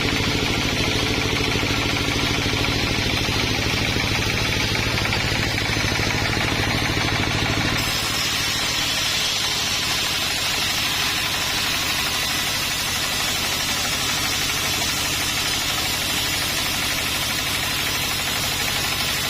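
An engine running steadily with a fast, even pulse. About eight seconds in the sound shifts, with less low rumble and more high hiss.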